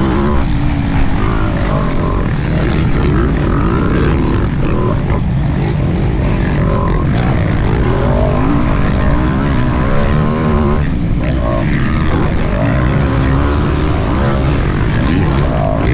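Motocross bike engines running and revving, their pitch rising and falling over and over above a steady loud drone.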